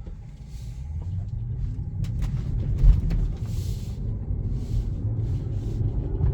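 Low vehicle rumble inside a Tesla's cabin, growing after about a second, with a few clicks and a loud thump about three seconds in.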